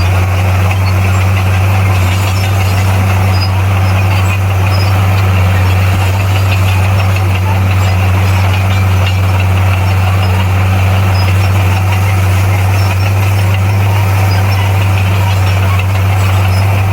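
Komatsu D58P bulldozer's diesel engine running at a steady speed, a constant low drone with mechanical clatter over it.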